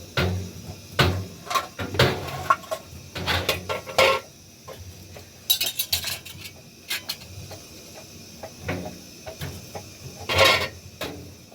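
Dishes, pots and utensils clinking and knocking as they are handled, in a string of short irregular clatters, the loudest about ten seconds in.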